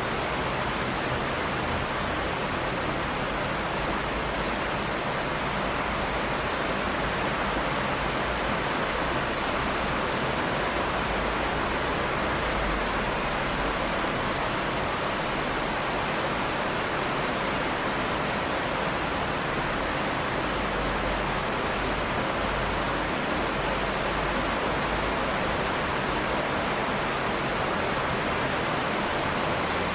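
Steady, dense rain falling: an even hiss without distinct drops or thunder.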